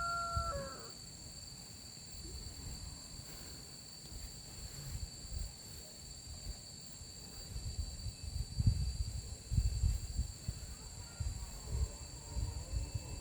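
A rooster's crow ends about half a second in, under a steady high insect drone of crickets or cicadas. Irregular low bumps and handling knocks get louder in the second half.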